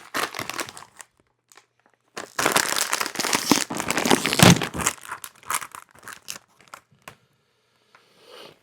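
Lay's potato-chip bag crinkling as it is handled, then a loud stretch of crinkling and tearing as the bag is pulled open, followed by a few scattered crackles.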